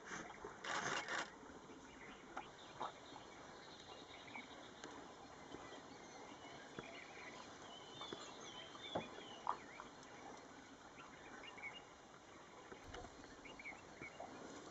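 Faint outdoor ambience in a wildlife sanctuary: a brief rush of noise about a second in, then scattered soft clicks and a few faint bird chirps.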